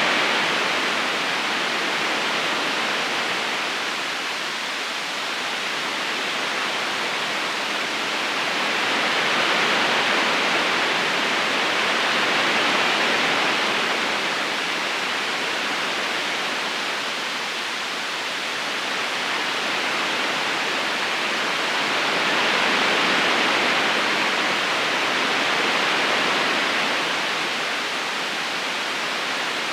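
River current flowing: a steady rushing hiss of water with no distinct splashes, slowly swelling and easing, loudest about a third of the way in and again about three quarters through.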